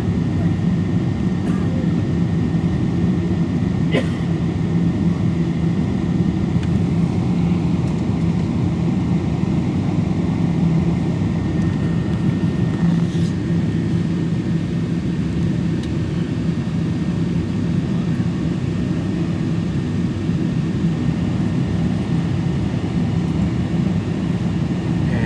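Steady low cabin drone inside a Boeing 777-224 on the ground just before taxi, even throughout, with a faint steady whine above it. A single faint click about four seconds in.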